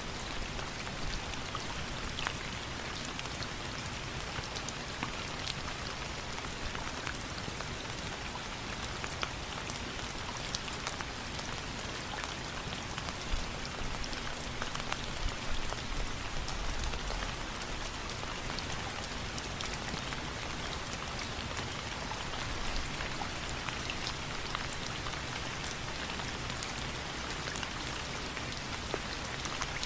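Steady rain falling, an even hiss dotted with many sharp little ticks of drops, and a brief low rumble about halfway through.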